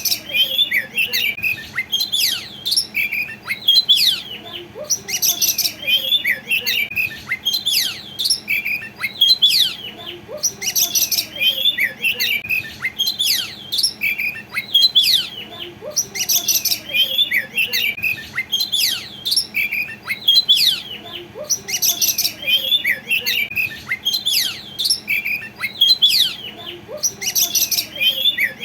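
Oriental magpie-robin (kacer) singing without pause: a varied string of quick sweeping whistles, with harsh, scratchy high phrases every second or two.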